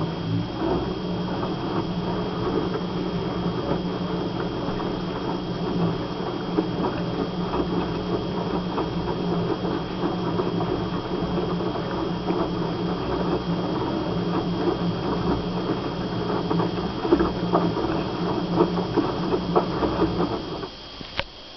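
LG WD-10810MD direct-drive front-loading washing machine in its main wash: the motor turns the drum with a low hum while wet laundry and water tumble and patter inside, then the drum stops near the end.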